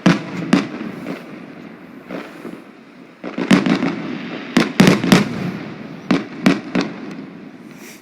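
Fireworks going off: a series of sharp bangs, with a burst of rapid crackling about three and a half seconds in, then a quick run of several more bangs.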